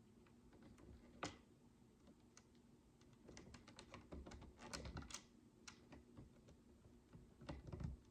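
Tiny plastic micro bricks clicking as they are handled and pressed together: soft scattered clicks, a sharper one about a second in, a quick run of clicks in the middle and another cluster near the end.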